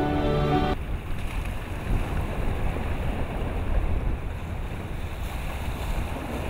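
Music cuts off abruptly under a second in, giving way to steady wind buffeting the microphone and water rushing past a moving motorboat at sea.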